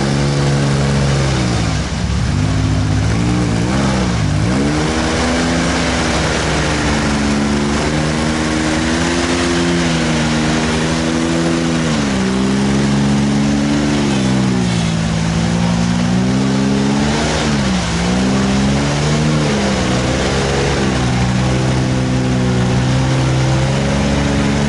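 Big mud truck's engine working hard as it churns through a water-filled mud ditch. The revs rise and fall throughout and drop sharply a few times, over a steady hiss of churned water and mud.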